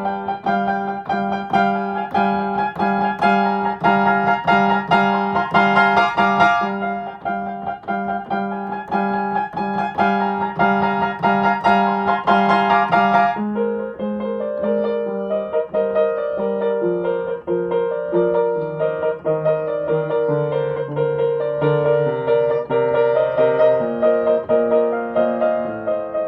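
Solo piano interlude with rapidly repeated chords over a steady bass note; about halfway through the figure changes to slower sustained chords over a descending bass line.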